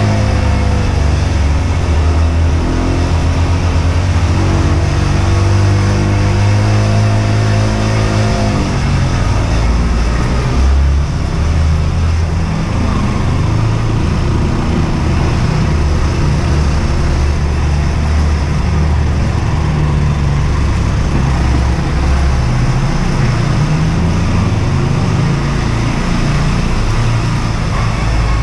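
Husqvarna Svartpilen 125's single-cylinder four-stroke engine pulling under throttle while riding, its pitch climbing slowly for the first eight seconds or so. It then backs off into a lower, uneven rumble, with wind rushing over the microphone throughout.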